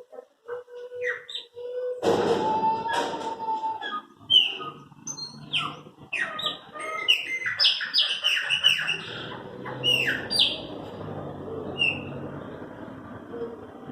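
Chopi blackbird (pássaro-preto) singing: a rapid run of loud whistled notes, many of them sweeping downward. A burst of noise comes in about two seconds in.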